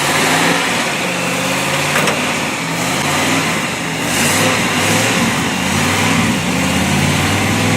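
Motor vehicle engine running, its revs rising and falling, over a steady hiss.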